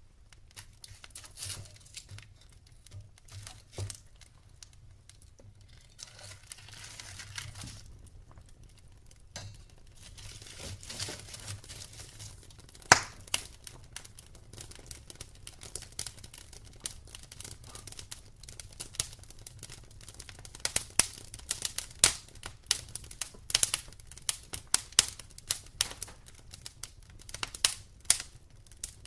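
Wood fire crackling in a fireplace: a faint hiss with scattered sharp snaps and pops that come thicker in the second half, and one loud pop about 13 seconds in.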